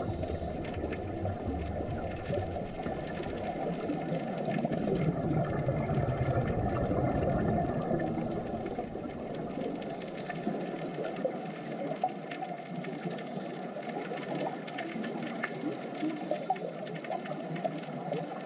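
Muffled underwater noise: a steady low rushing and churning of water, with the deepest rumble fading out about halfway through.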